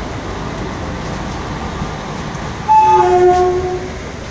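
Steady running noise of an Indian Railways passenger train, heard through an open coach door. Near the end a train horn sounds once for about a second, its pitch stepping down partway through.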